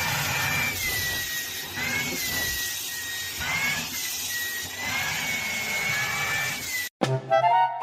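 A small electric motor whining over a steady rushing hiss, its pitch wavering slightly up and down. It cuts off suddenly near the end.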